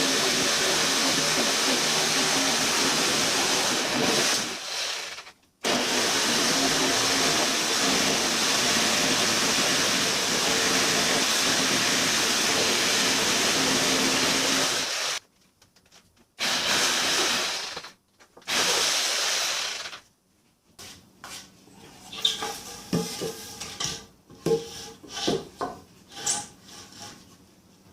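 A power tool's motor running steadily in long runs, stopping about four and a half seconds in and again about fifteen seconds in, then two short runs. The last few seconds are scattered knocks and clatter of wood and tools being handled.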